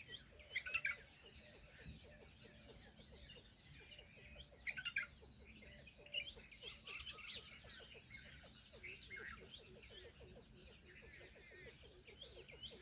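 Many small birds chirping and twittering at once, with a few louder bursts of chirps, over a faint fast pulsing low in the background.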